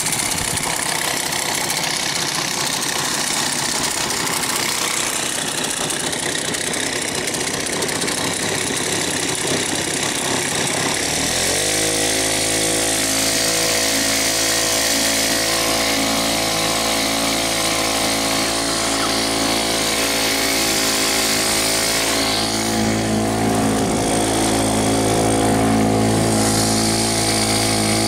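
Small 2.6 hp lawnmower engine driving a boat, running. About eleven seconds in its pitch rises and then holds at a steady speed.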